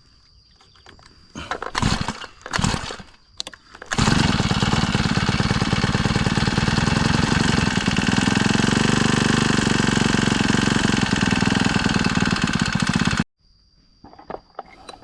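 Brush cutter engine pull-started during carburettor adjustment: a few short pulls, then it catches about four seconds in, runs steadily for about nine seconds and cuts out abruptly near the end, the carburettor still not right after the adjusting screw was backed out two turns.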